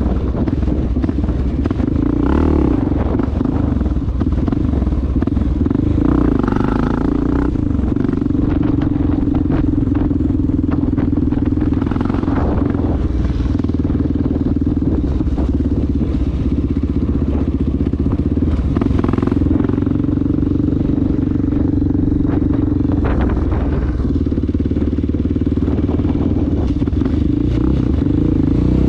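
Honda XR650L single-cylinder four-stroke engine running under way at a steady cruising speed, its pitch held mostly even with a slight waver.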